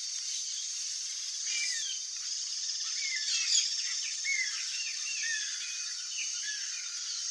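A run of short, quick, downward-sliding bird chirps, repeated many times over a few seconds, over a steady high-pitched hum of insects.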